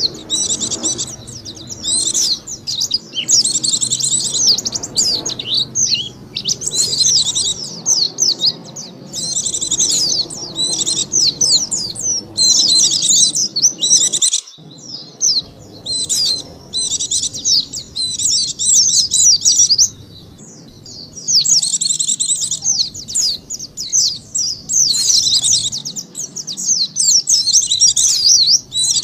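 White-eye (pleci) song used as a lure call: rapid, high twittering phrases of many quick notes, repeated with brief pauses, with a short break about halfway through.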